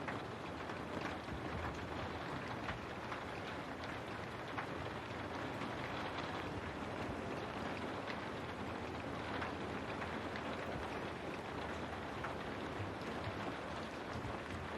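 Steady rain falling, with many separate drops striking a window pane.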